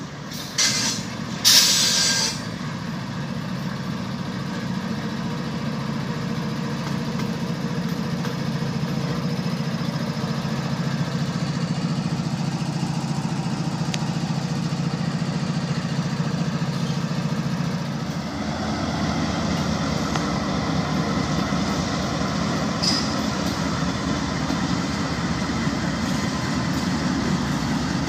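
CSX freight train rolling past with its diesel locomotives running: a steady engine rumble and wheel noise throughout, with two short, loud hissing bursts near the start. About two-thirds of the way through the noise grows rougher and fuller as more locomotives come by.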